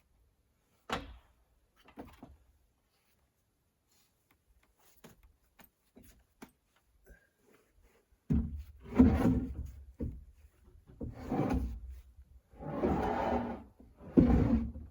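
Wooden boards being handled: a sharp knock about a second in, then four slides or scrapes of about a second each, wood dragging over wood.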